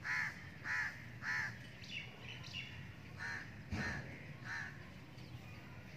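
A bird calling: two runs of three short calls, the second run starting about three seconds in.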